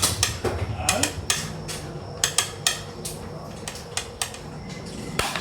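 Xiangqi (Chinese chess) pieces clacked down on the board in a rapid, irregular series of sharp clicks.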